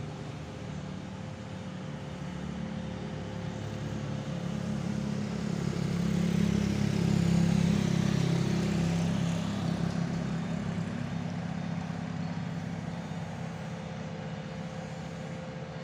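Heavy truck's diesel engine labouring up a steep grade, growing louder as it passes close about halfway through and then fading away.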